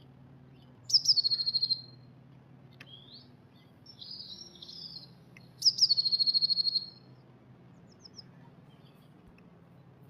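Blue tit singing twice, each song a couple of high, thin notes running into a fast, even trill of about a second. Softer twittering sits between the two songs.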